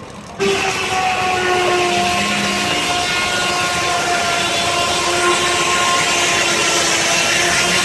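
Sawmill circular saw blade, belt-driven by a steam traction engine, biting into a log about half a second in and then cutting steadily: a loud rasping noise with a ringing whine that sags slightly under the load of the cut.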